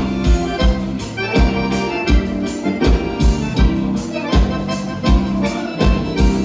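Live gaúcho dance music, an instrumental passage led by accordion with keyboard, over a steady drum beat of about three kicks a second.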